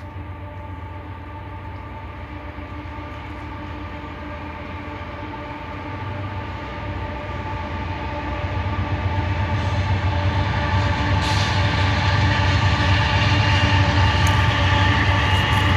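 A train approaching and growing steadily louder: a low rumble under several steady tones, with rising rail and wheel noise over the last few seconds.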